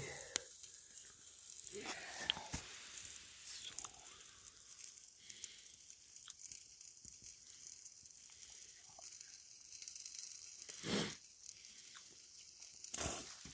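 Faint sizzling of chicken frying on a hot flat rock set over a campfire, with scattered small crackles and two short, louder rushes of noise near the end.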